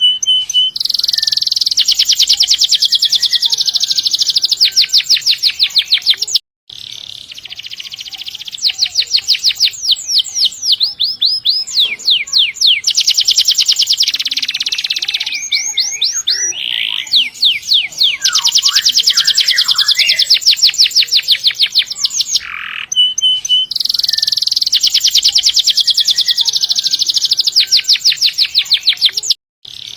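Domestic canary singing long, fast, high rolling trills, phrase after phrase with short pauses between. The song cuts out abruptly for an instant about six seconds in and again near the end.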